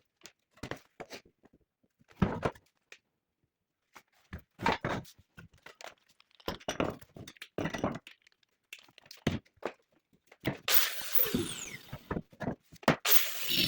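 Irregular thunks and knocks of objects being handled and set down, then from about three-quarters of the way in a steady rushing noise with a falling whine, cut briefly near the end.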